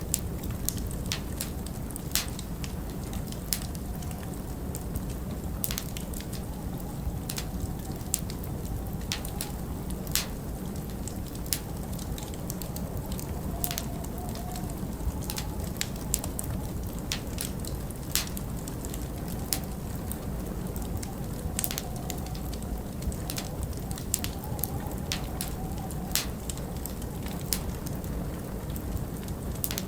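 Logs burning in a fireplace, crackling with frequent sharp, irregular pops over a steady low rumble of wind.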